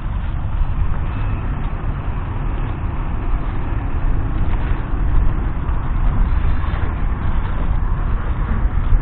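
Fendt 516 Vario tractor's 4.0-litre four-cylinder diesel engine running steadily.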